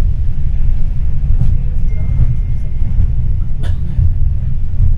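Tram running on its rails: a steady, heavy low rumble, with a single sharp knock about three and a half seconds in.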